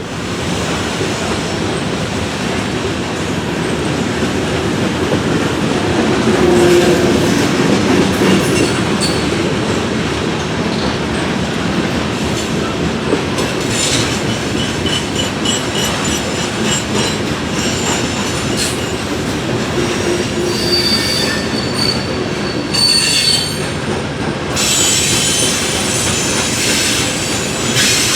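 Freight train cars rolling past on steel rails, with steady rumble and wheel noise. Short high-pitched wheel squeals come about two-thirds of the way through.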